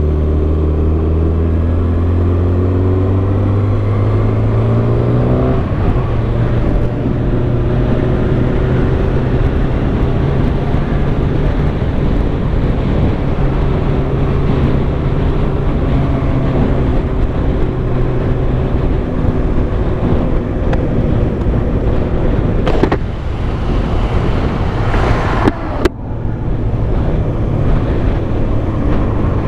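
Kawasaki ZX-6R 636 inline-four engine under way, rising in pitch for about five seconds, then dropping as it shifts up and holding a steady cruising note. Heavy wind and road noise run under it, with two brief rushes of noise near the end.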